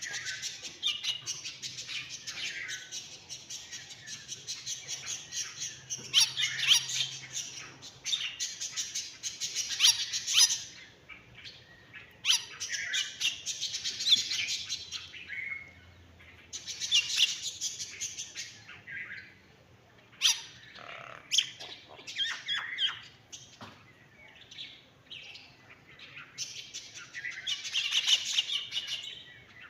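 Myna bird chattering in bouts of rapid, high-pitched calls and squawks, with short pauses between bouts. The longest bout runs through the first ten seconds, and others come about 12, 17 and 27 seconds in, with scattered single calls in between.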